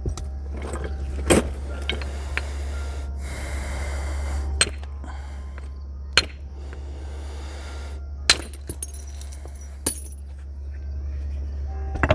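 Flint nodule being knapped with natural tools: about six sharp stone-on-stone strikes a second or two apart, the loudest near the two-thirds mark. Between the strikes come stretches of rasping, scraping noise from stone rubbed on the flint's edge. A steady low hum sits underneath.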